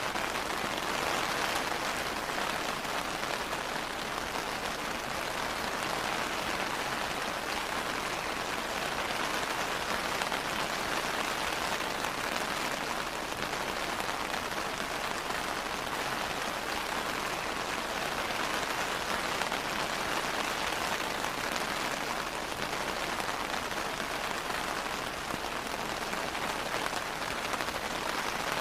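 Steady rain falling, an even hiss of drops without breaks or change.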